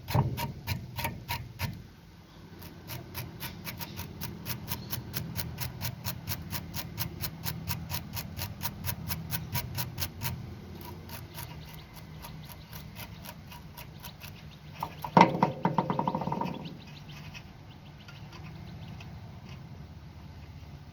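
Hand wire brush scrubbing a crud-encrusted steel bolt in quick back-and-forth strokes, several a second. There is a short, louder burst of brushing about fifteen seconds in.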